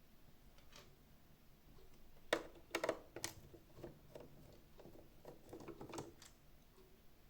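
Scattered light clicks and knocks of plastic parts and a tool being handled while a Xiaomi Mijia 1C robot vacuum is taken apart. The sharpest knock comes a little over two seconds in, followed by a quick cluster of them.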